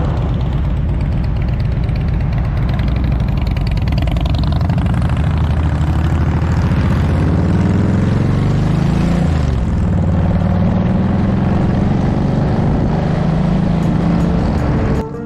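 Motorcycle engine running under way: its pitch climbs, drops sharply about nine and a half seconds in as it shifts gear, then holds steady. The sound cuts off abruptly near the end.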